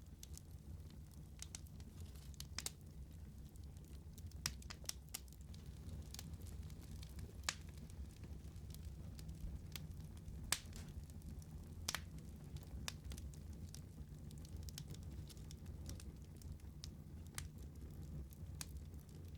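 Wood fire burning in a fireplace: a low steady rumble with irregular sharp crackles and pops, a few louder pops standing out.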